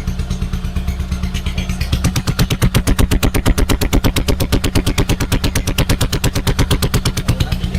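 Motorcycle engine idling through its exhaust. About two seconds in, the throttle opens and the exhaust gives a rapid, even stream of sharp pulses.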